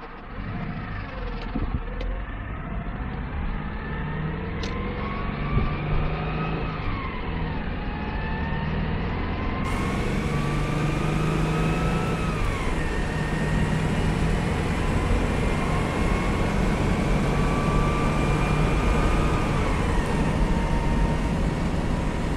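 1999 Subaru Outback's flat-four engine accelerating through the gears with a high whine that rises with the revs and drops at each of three shifts, the noise the driver fears is a spun bearing.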